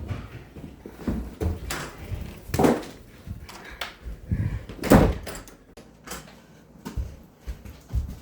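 A door being opened and shut, among a string of irregular knocks and thumps in a small room, the loudest about five seconds in.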